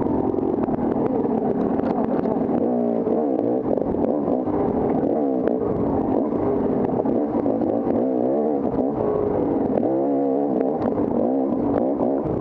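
Dirt bike engine revving up and down over and over as the throttle is opened and closed on an off-road trail, with scattered sharp knocks.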